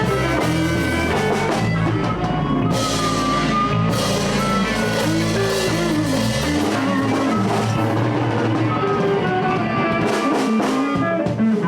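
Live blues band of guitars, bass and drums playing an instrumental stretch without singing, with bending, sliding lead notes over a steady drum beat.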